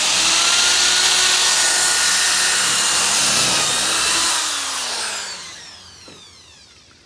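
Power drill drilling out a rivet from a caravan panel, running steadily at full speed, then released about four seconds in and spinning down with a falling whine.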